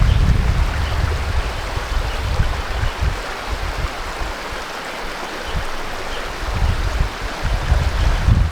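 Steady rush of running water, with wind buffeting the microphone as a low rumble that eases off in the middle and comes back near the end.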